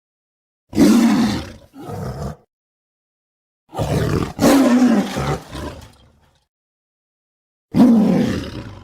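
Smilodon (sabre-toothed cat) creature sound effects: a series of roars, each lasting about half a second to two seconds, in three groups separated by dead silence.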